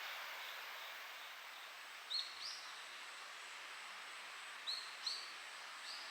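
A bird chirping in short rising notes, mostly in pairs, over a steady outdoor background hiss.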